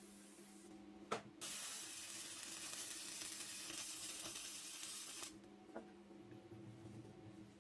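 Electric workshop machine motor humming steadily. A sharp click about a second in is followed by a steady hiss for about four seconds, then the hum continues alone.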